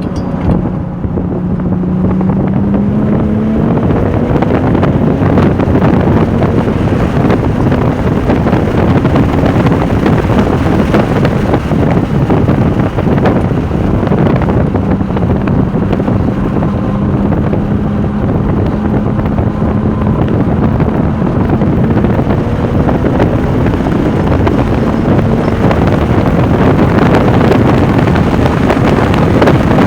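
Porsche 996 Turbo's twin-turbo flat-six engine running hard on track, with its note climbing about two seconds in. Heavy wind rush and buffeting on the microphone covers it.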